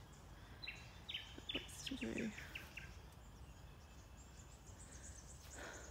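Wild birds calling: a quick run of clear, stepped notes in the first couple of seconds, then faint high chirping near the end, over a low outdoor background hum.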